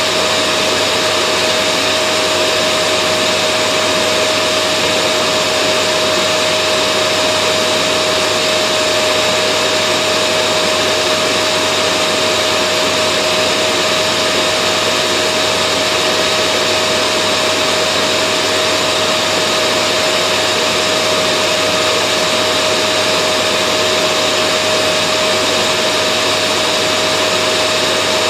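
Vacuum cleaner motor running steadily: an even rush of air with a constant mid-pitched whine, unchanging throughout.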